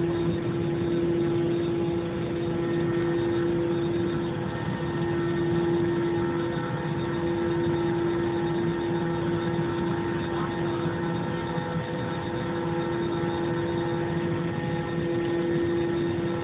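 Airliner cabin noise on the ground before takeoff: a steady drone of the jet engines at low power, with a constant hum over an even rush of air.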